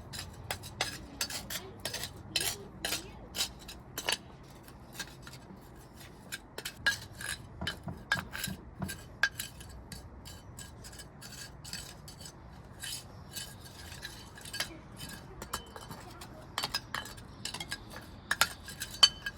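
Concrete patio pavers clacking and scraping against one another as they are set in place and pushed tight, in irregular clusters of sharp knocks.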